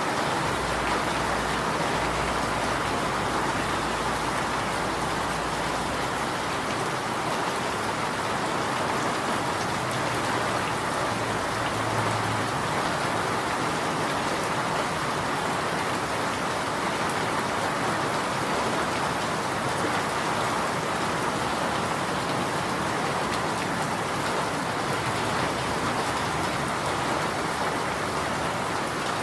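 Steady rain falling on surfaces, an even, unbroken hiss. A faint low rumble sits under it for the first few seconds.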